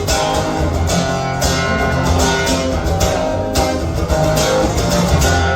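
Instrumental break of a live band playing a song: strummed guitar over bass, with repeated strums through it and no singing.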